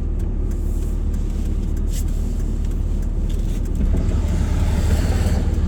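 Low, steady rumble of a vehicle driving on a snowy road, heard from inside the cab, growing louder about four seconds in.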